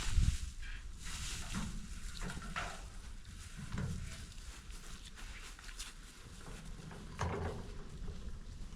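Rustling and handling noises from garden cleanup of tomato plants and trellis, with scattered knocks and a sharper knock right at the start, over a low rumble.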